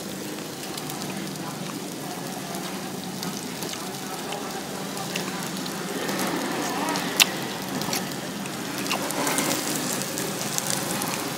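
Food sizzling and crackling as it fries in hot oil, with one sharp click about seven seconds in.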